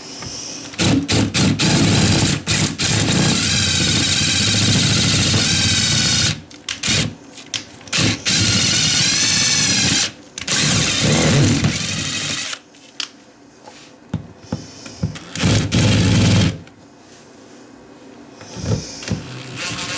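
Cordless drill driving screws, running in several bursts of a few seconds with short pauses between them, its motor pitch rising and falling as the screw loads it.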